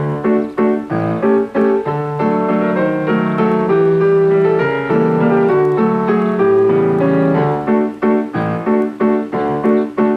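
Piano playing an instrumental passage: evenly repeated chords, with longer held chords through the middle.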